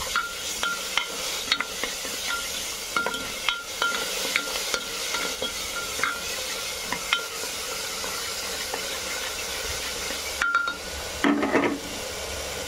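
Chopped onion and peas sizzling in hot oil with whole spices in a pressure cooker, a spatula stirring and scraping the pot with frequent short ringing taps for the first seven seconds or so, fewer after that. The onion is being fried until brown.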